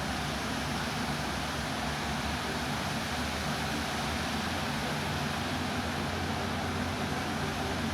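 A vehicle engine running steadily under an even rushing noise, with a low hum.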